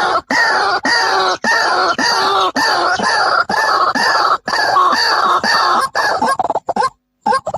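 White-breasted waterhens calling: a rapid run of loud, harsh croaking notes about two a second, each falling slightly in pitch. The run breaks up into short choppy notes and cuts off briefly shortly before the end.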